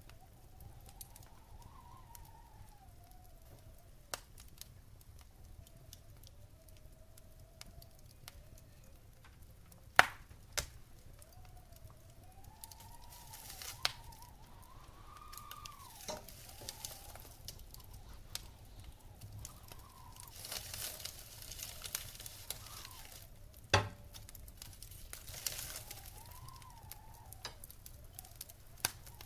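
Wood fire burning in a stone fireplace: soft crackling with scattered sharp pops, two of them much louder than the rest, and spells of hissing from the burning wood in the second half, over a faint, slowly wavering whistle.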